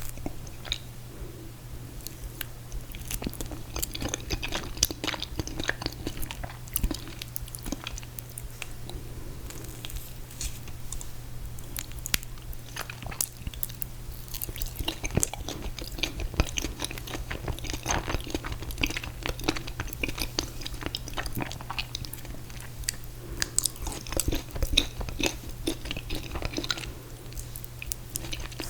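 Close-up chewing and biting of ice cream cake with mint chocolate chip ice cream: a steady run of small wet mouth clicks and soft crunches. A steady low hum sits underneath.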